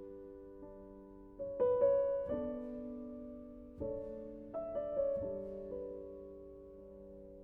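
Slow, gentle solo piano background music: soft chords struck every second or so and left to ring and fade.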